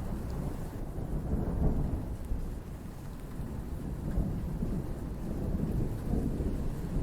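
Thunder rumbling low and continuously over steady rain, the rumble swelling about a second and a half in and again near the end.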